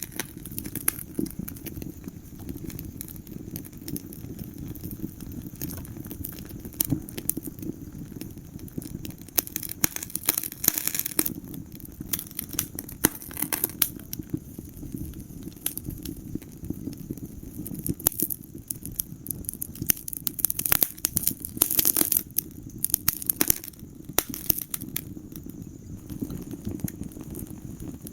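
Wood fire crackling in a fireplace: irregular sharp pops and snaps over a steady low rumble of the burning, with thicker clusters of pops every few seconds.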